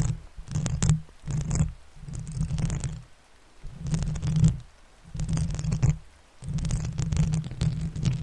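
Close-miked ASMR trigger sounds: rubbing or scratching on or right at the microphone in repeated strokes about half a second to a second long, with short gaps between them.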